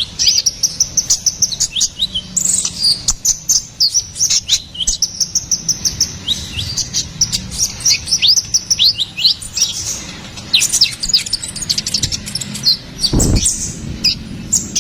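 A sunbird (konin, or 'kolibri ninja') singing a fast, busy song of thin, high-pitched chirps and quick sweeping notes, almost without a break. A low thump about 13 seconds in.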